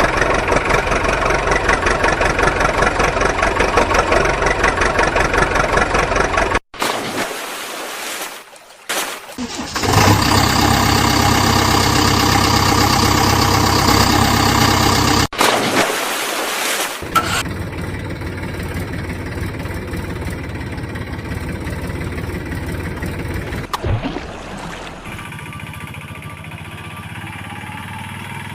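Engines running in a series of clips joined by abrupt cuts, loudest in the first half and quieter after a cut near the end.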